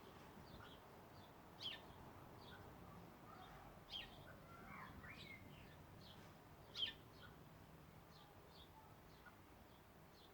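Birds chirping: short, sharp, high chirps, the clearest three a couple of seconds apart, with fainter ones between and a brief lower warbling phrase about halfway through.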